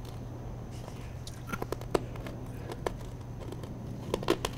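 Faint, scattered clicks and smacks of a child chewing a piece of candy, over a low steady room hum.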